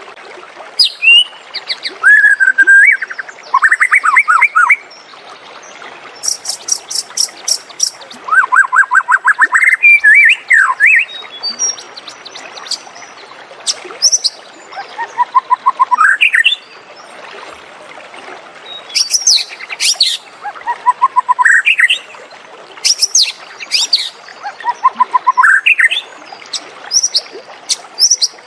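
White-rumped shama singing: a varied song of clear whistled notes, rising glides and fast rattling trills, with a new phrase every couple of seconds.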